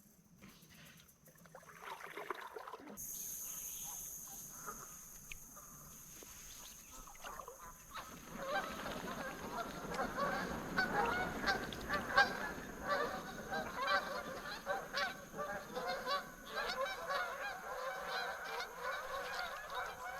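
A flock of geese honking, many calls overlapping, growing into a dense, continuous chorus about eight seconds in.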